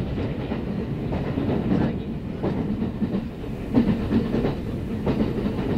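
Kintetsu 9030-series electric train running, heard from inside the passenger car: a steady rumble of wheels on rail with irregular clicks over the rail joints.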